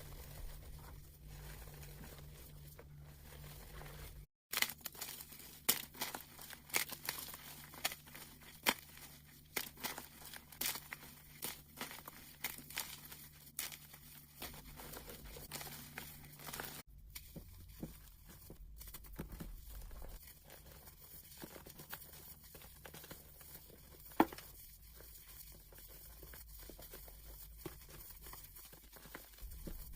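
Blocks of gym chalk being crushed and crumbled, a run of crisp crunching crackles sped up to double speed. The crackles are dense in the middle, then sparser, with one sharp snap near the end, broken by two abrupt edit cuts.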